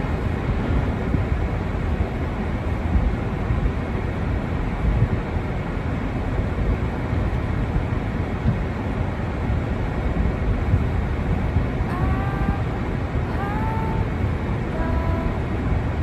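Steady rumbling noise of wind buffeting the microphone in a snowstorm. Near the end come a few short, high calls that bend in pitch.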